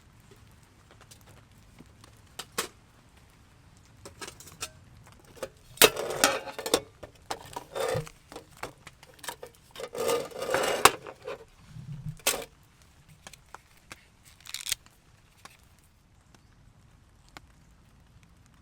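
Objects being handled: scattered clicks and small knocks, with two louder bursts of rustling and clattering about six and ten seconds in.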